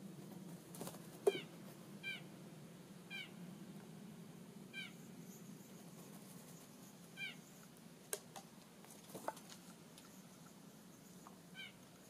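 A bird's short, high mewing call, repeated six times at uneven gaps, with a few sharp clicks. The loudest click comes about a second in.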